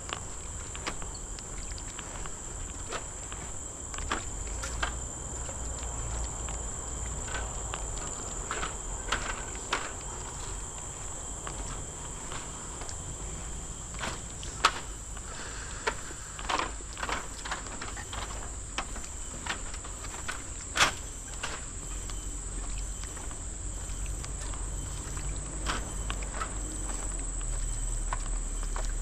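Steady high-pitched insect chorus of tropical forest, with irregular footsteps and clicks and a low rumble underneath.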